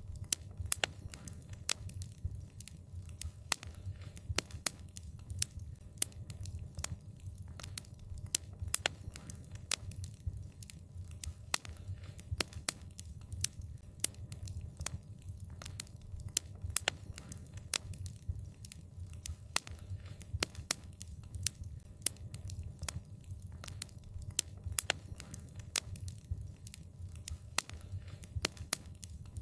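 Wood fire crackling, with frequent sharp irregular pops and snaps over a low, steady rumble of burning.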